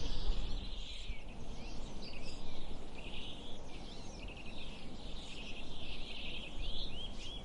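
Several birds chirping and singing at once, with a run of quick repeated rising notes near the end, over a steady low rumble.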